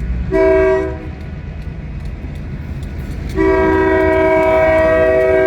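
Locomotive air horn sounding a multi-note chord: a short blast about half a second in, then a long blast from about three and a half seconds in, over the low rumble of the approaching train. The long–short–long pattern fits the closing part of a grade-crossing horn signal.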